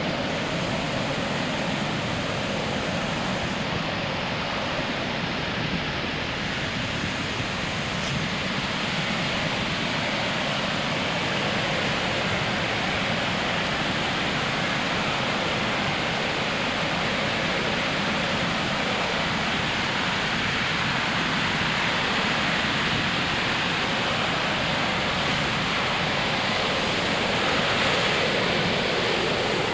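Ocean surf breaking and washing onto a sandy beach, a steady wash of noise that swells slightly near the end.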